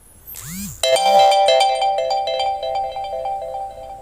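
A short electronic chime sting: a quick whoosh sweep, then a bright ringing chord with fast repeated notes that fades over about three seconds.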